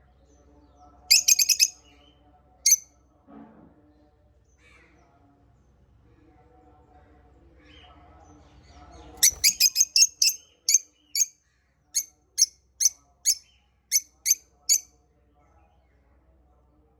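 Small parrots giving short, shrill chirps: a quick cluster about a second in and a single chirp soon after, then about nine seconds in a rapid run that slows into a steady series of two or three chirps a second before stopping.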